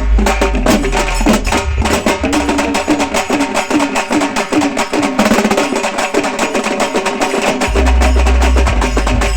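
A group of halgi frame drums played fast with sticks, a dense stream of rapid strokes with a ringing drum pitch. A deep bass drops out for a few seconds in the middle and comes back near the end.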